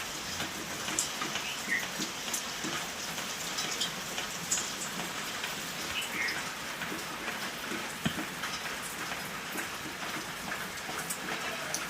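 Steady rain falling, an even hiss dotted with scattered sharper drop impacts.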